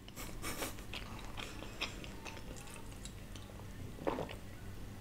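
A person chewing food with soft, faint mouth clicks, then a single swallow from drinking out of a plastic bottle, just after four seconds in.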